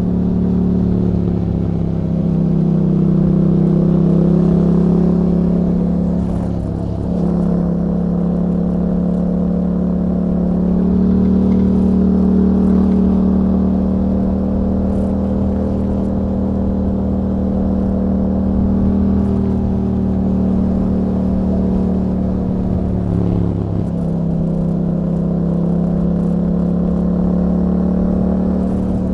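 2021 Yamaha MT-07's 689 cc parallel-twin engine, heard through an Akrapovic exhaust with a YAHOM dB killer, running steadily under way. The pitch dips briefly about seven seconds in and again near the end.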